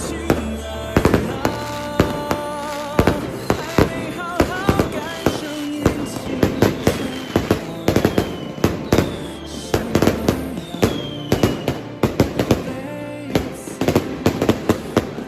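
Fireworks going off in quick succession, sharp bangs several times a second, with background music playing underneath.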